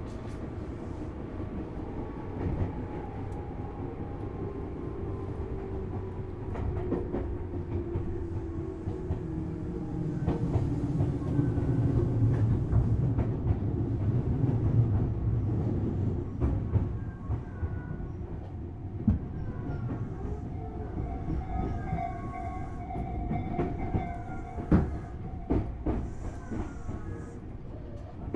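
Tobu Series 6050 electric train heard from inside a motor car, running on the rails with a low rumble and scattered rail-joint clicks. Its motor and gear whine slowly falls in pitch as the train slows for a station, and high brake squeal comes in during the second half.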